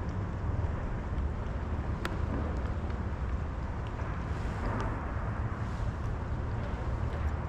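Steady low rumble of a running engine, with wind noise on the microphone and a few faint clicks.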